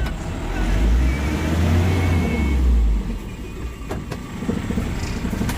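Isuzu Traga pickup's diesel engine revving hard under load as it tries to climb a slippery, muddy slope. It builds for a couple of seconds, then drops back about three seconds in.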